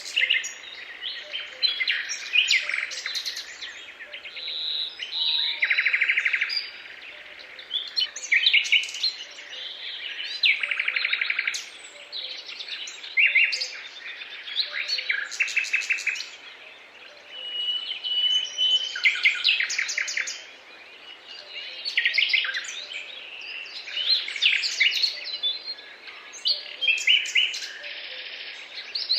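Several songbirds singing over one another in a continuous chorus of chirps, rapid trills and whistled notes.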